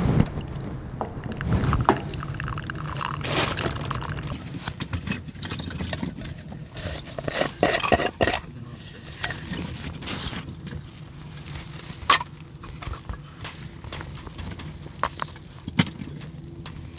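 Wood stove fire crackling, with scattered sharp pops and clicks over a steady low rumble.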